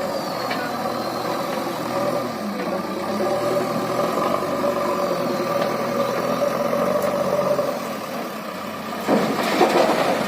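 Backhoe loader's diesel engine running steadily, then growing louder and rougher about nine seconds in.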